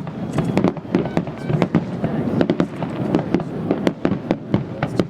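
Fireworks going off in a dense, rapid string of sharp bangs and crackles over a steady low rumble.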